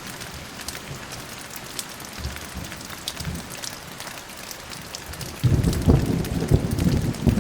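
Steady rain with individual drops pattering. About five and a half seconds in, a low rumble of thunder starts suddenly and grows loud and crackly.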